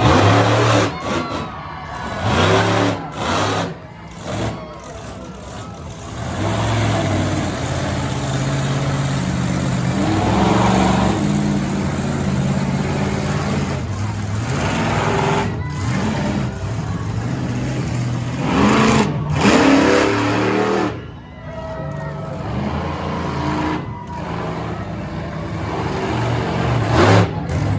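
Bounty Hunter monster truck's engine running hard, its revs surging up and down repeatedly as the truck is worked through two-wheel stunts.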